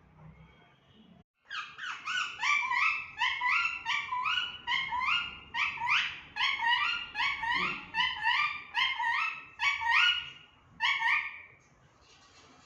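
Pet parrot calling in a long rapid series of sharp, rising calls, about two a second, stopping shortly before the end.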